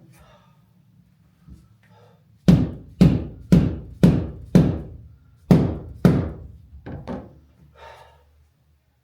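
A run of heavy thunks, blows that seat the rear window glass of a Jaguar Mk2 into its rubber seal. There are five strikes about half a second apart, a short pause, two more, then a couple of lighter knocks.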